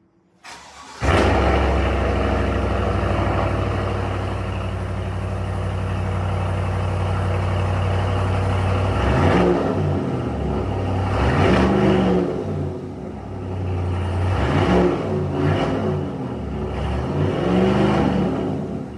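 Chevy Silverado's 6.2-litre V8 starting through a Borla S-Type cat-back exhaust: a brief crank, the engine catching about a second in and settling into a steady idle. From about nine seconds in it is revved four times, each rev rising and falling back to idle.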